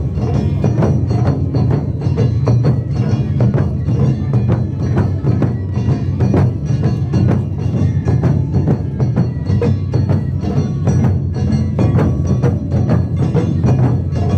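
Live Japanese taiko drumming: large drums struck in a dense, driving rhythm, with deep booms underneath and sharper, higher strikes on top.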